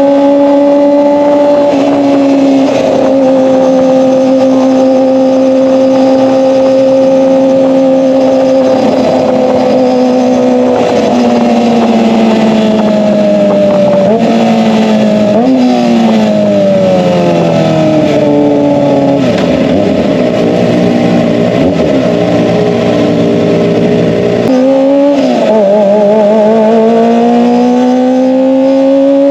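Kawasaki ZX-25R's high-revving 250cc inline-four running through an SC-Project exhaust: held at steady high revs, then the revs fall with a few quick blips in the middle, and near the end they jump up and climb again.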